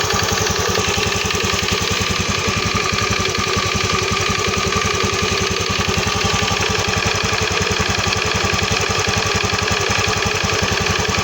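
Honda BeAT FI scooter's single-cylinder four-stroke engine idling steadily with a regular knocking (ngelotok) sound, which the owner suspects may be a worn connecting rod.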